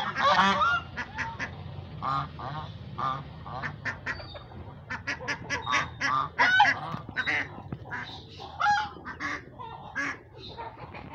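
Muscovy ducks hissing and calling during mating: a steady run of many short, overlapping calls, some rough and hissing, some pitched and honk-like.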